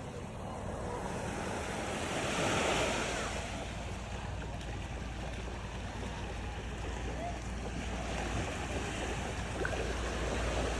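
Sea waves washing, swelling about two seconds in and again near the end, with wind rumbling on the microphone.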